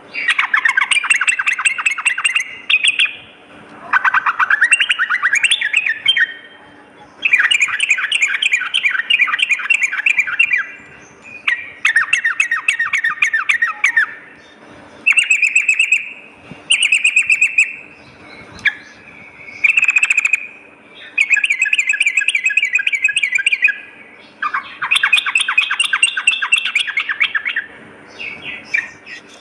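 Yellow-vented bulbul (trucukan) singing: about ten bursts of fast, rapidly repeated chattering notes, each one to three seconds long, separated by short pauses, with one phrase sweeping upward. A faint steady hum runs underneath.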